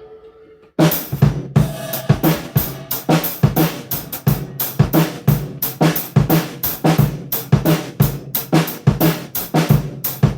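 A drum kit kicks in about a second in and plays a steady groove: bass drum, snare, hi-hat and cymbals.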